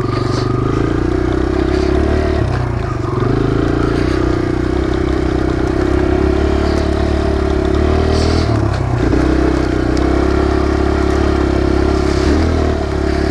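Kawasaki KLX140 dirt bike's single-cylinder four-stroke engine running steadily while being ridden, its note dropping briefly and picking back up about three times.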